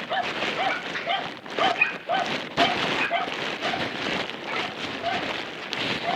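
Steady rain falling, with an animal's short call repeating about twice a second.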